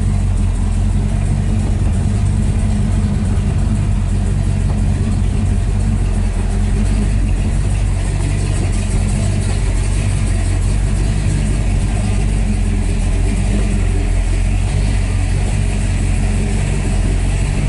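426 Max Wedge V8 of a 1963 Dodge Ramcharger clone running at a low, steady speed with no revving while the car is backed up slowly in reverse.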